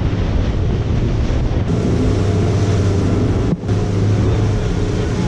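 A motorboat running underway at speed, its engines giving a steady hum under heavy wind buffeting on the microphone and rushing water.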